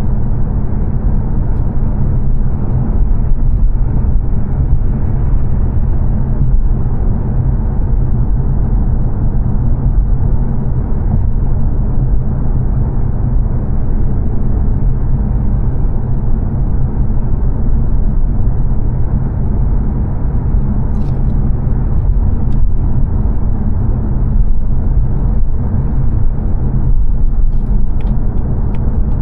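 Steady road and tyre noise with engine hum inside the cabin of a 2022 Mazda 3 saloon cruising on a dual carriageway, a low, even rumble with a few faint ticks near the end.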